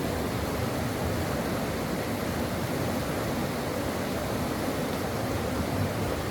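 Stream water rushing steadily over rocks: a dense, even water noise with a deep low end and no changes.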